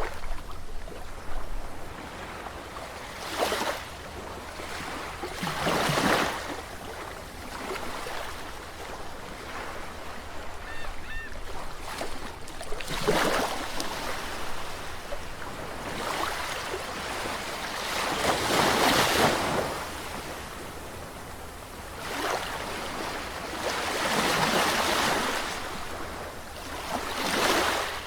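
Ocean surf: waves breaking and washing in, swelling every four to six seconds over a steady hiss of water.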